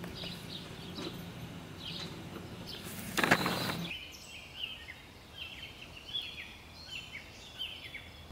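Small birds chirping over and over in short, falling calls, with a brief loud rush of noise about three seconds in.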